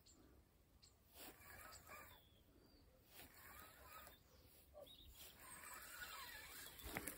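Faint birds singing in short chirping phrases every second or two, over near silence.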